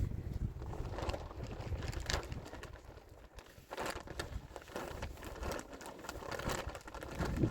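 Irregular rustling and crinkling with scattered soft clicks and knocks, quieter for a moment about three seconds in.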